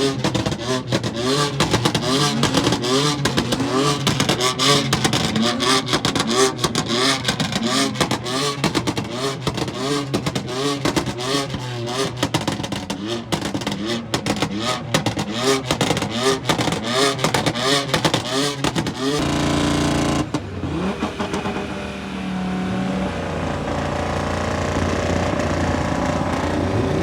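Car engine revved hard again and again, its pitch rising and dropping in quick sweeps with dense crackling. About twenty seconds in it gives way to a steadier, duller engine drone.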